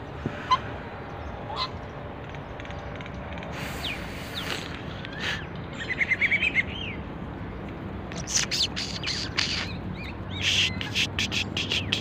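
Small birds chirping in short, sharp calls, scattered at first and then in thicker clusters, with a quick trill about six seconds in.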